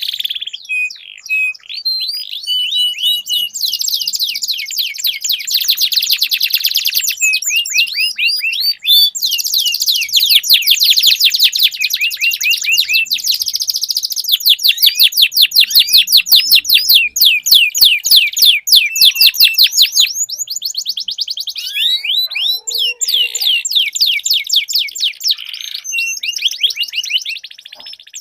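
Domestic canary singing long, rapid rolling trills, fast strings of repeated high notes that change speed and pitch from one roll to the next, with short breaks between phrases.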